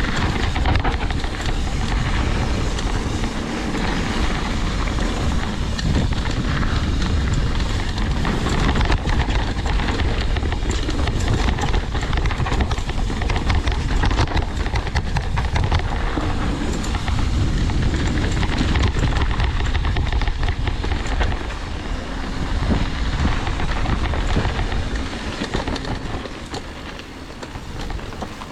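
Mountain bike descending a rough, rocky downhill trail: a continuous rush of wind and rumble, with the tyres, chain and frame rattling over the rocks. The noise eases off near the end as the bike slows.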